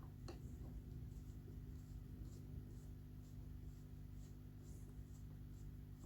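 Faint light ticks and scratches from screws and ceiling fan parts being handled during disassembly, over a steady low hum.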